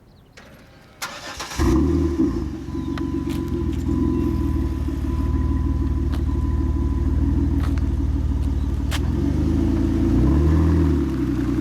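Jeep Wrangler JK engine starting through a Gibson Metal Mulisha aftermarket exhaust: a click, then the engine catches about a second and a half in and settles into a steady deep idle. Near the end the revs rise briefly and fall back.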